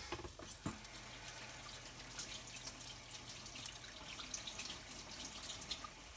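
Cap'n Crunch-coated French toast frying in butter in a skillet: a faint, steady sizzle with scattered crackles and pops. A single light knock just under a second in.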